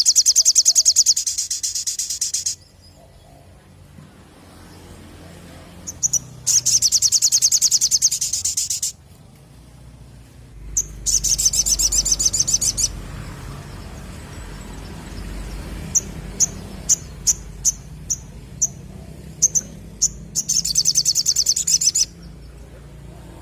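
A little spiderhunter (sogon) singing: four bursts of fast, high, rapid-fire trilling, each lasting about two seconds, with single sharp high chips between the later bursts.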